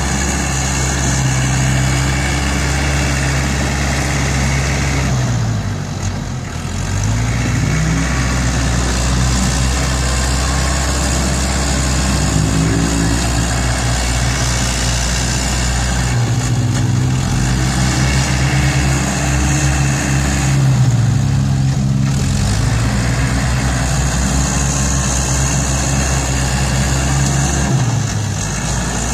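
ISEKI NT554 diesel tractor engine working hard. Its revs sag and pick back up several times, the pull-down of the load as it pushes soil.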